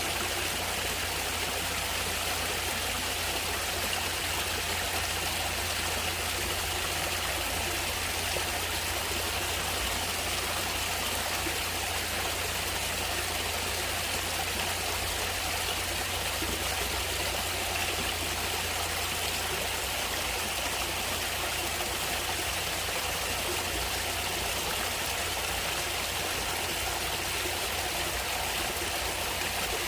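Stream water running steadily: an even, unbroken rush of water, strongest in the upper range, with no change in level.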